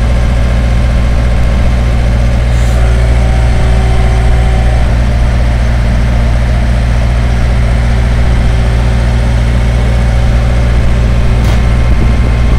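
Skid steer loader engine running steadily at a constant speed, with a couple of faint clicks.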